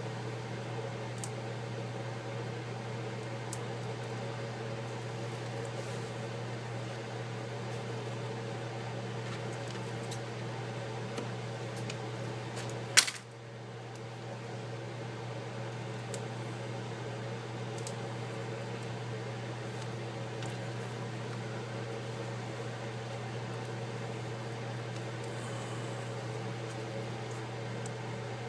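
Steady low electrical hum, like a fan or motor running, with a single sharp click about halfway through.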